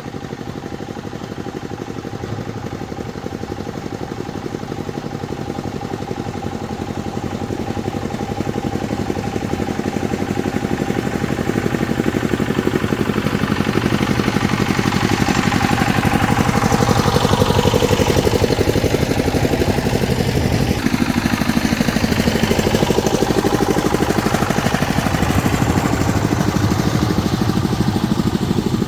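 A motor running steadily with a fast, even pulse. It grows louder through the first half, then its pitch sweeps up and down for several seconds.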